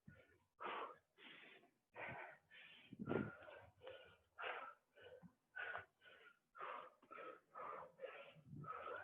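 A person panting hard from exertion, quick breaths in and out at about two a second, faint and close to the microphone, mid-workout.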